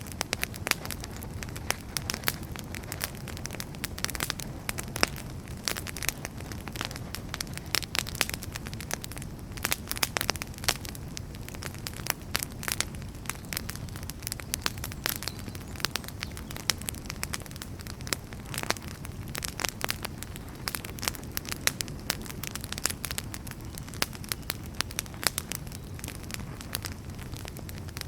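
Wood fire burning: a steady low rumble of flames with frequent irregular crackles and pops from the burning firewood.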